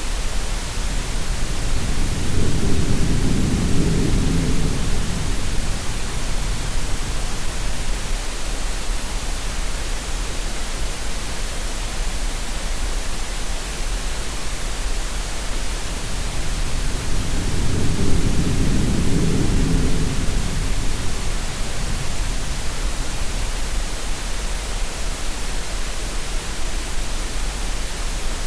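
Steady green noise: a constant, even hiss. Twice, about fifteen seconds apart, a slow low swell of sea waves rises and fades beneath it.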